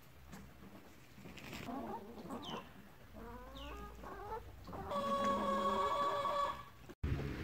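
Domestic chickens calling: a run of short clucks with a couple of quick falling chirps, then one long held call about five seconds in, the loudest sound here. The sound cuts out abruptly near the end.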